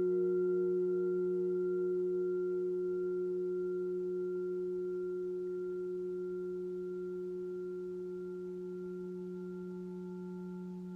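Singing bowl ringing on after being struck: a low tone with a higher one above it and a faint wavering overtone, slowly fading away.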